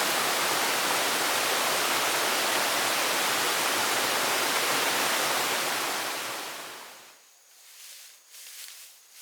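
A steady, even rushing noise of water fades away about six to seven seconds in, leaving a quiet stretch with faint clicks and rustles.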